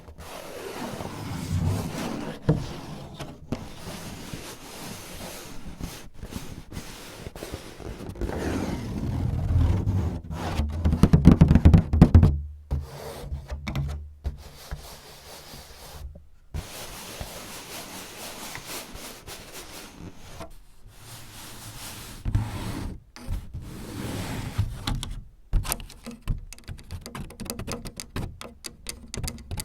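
Hands tapping, rubbing and scratching on a surface at close range. A steady stretch of rubbing and scratching, heaviest in the low end around ten seconds in, gives way near the end to a run of quick sharp taps.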